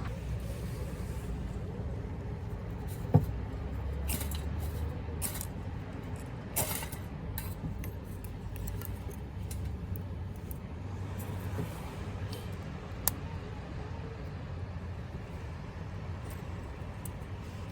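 Wood fire crackling in a Solo Stove, with scattered sharp pops; the loudest comes about three seconds in. A steady low rumble runs underneath.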